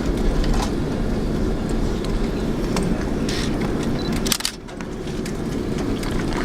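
Cabin noise of an Airbus A330 rolling on the ground just after landing: a steady low rumble of engines and wheels, with scattered light clicks and rattles from the cabin. The level dips briefly about four and a half seconds in.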